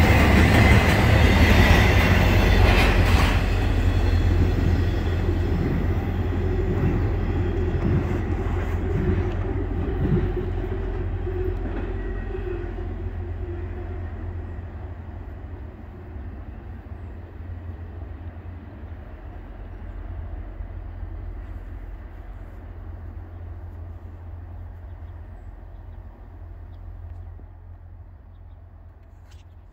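Last cars of an intermodal freight train, loaded with highway trailers, rolling past with wheels rumbling and clattering over the rails. The sound is loudest in the first few seconds, then fades steadily as the train moves away, with a few knocks about eight to ten seconds in.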